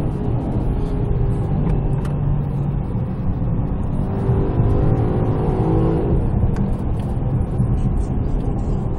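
Range Rover Sport's supercharged V8 accelerating, heard from inside the cabin over heavy road rumble; the engine note rises from about four seconds in and drops away about six seconds in.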